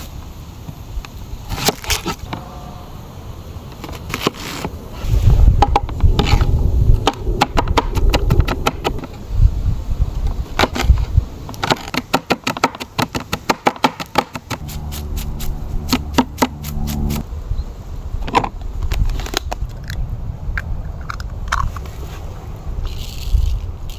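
Handling noises: a long run of scrapes, knocks and clicks, with a steady low hum for a couple of seconds about two-thirds of the way through.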